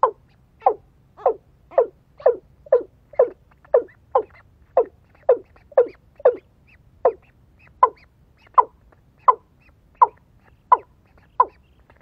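A fowl-like bird calling in a steady series of short, falling notes, about two a second.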